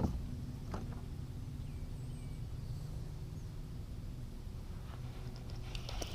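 Quiet open-air lake ambience on a kayak: a steady low rumble, two light knocks in the first second, and a few faint bird chirps in the middle.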